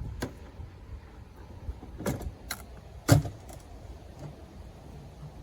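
A few scattered knocks and clatters over a low rumble, the loudest about three seconds in.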